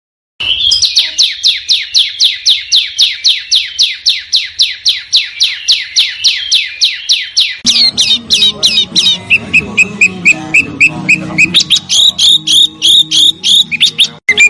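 Small songbird song from a bird-training recording: a fast, even run of sharp, down-slurred whistled notes, about five a second. About halfway through it changes to a varied chatter of shorter chirps over a low hum.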